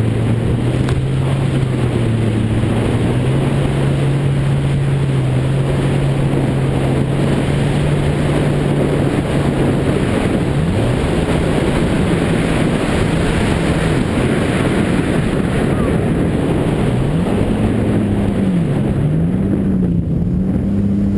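Jet ski engine running under way, with wind and water rushing. The engine holds a steady pitch for about the first half. Then its pitch dips and climbs back several times as the throttle is eased off and opened again.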